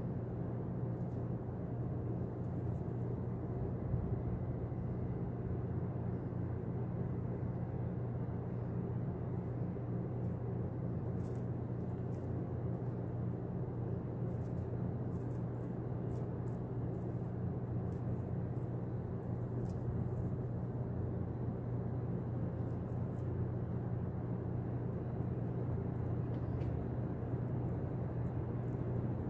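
Steady low mechanical hum and rumble, with faint scattered ticks over it.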